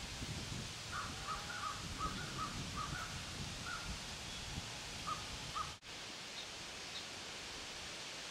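A bird calling a quick series of short, harsh paired notes, about a dozen over four or five seconds, over steady outdoor background hiss; the sound cuts out for an instant just before the calls stop.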